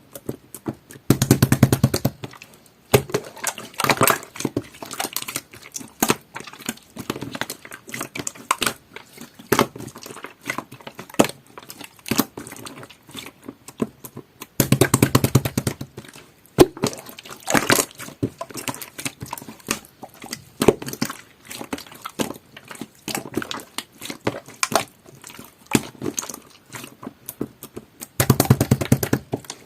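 Clear jelly-textured slime being squished and pressed by hand: a steady run of sticky crackling pops, with three louder, longer squishes about a second in, in the middle and near the end.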